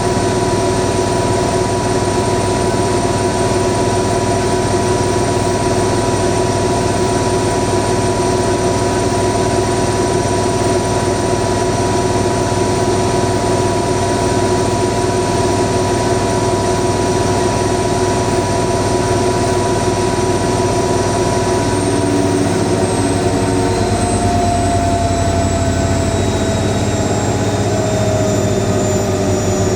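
AEG 7000 Series washing machine in its final 1400 rpm spin: a steady, loud motor and drum whine that holds its pitch, then begins falling in pitch about two-thirds of the way through as the drum starts to slow down at the end of the spin.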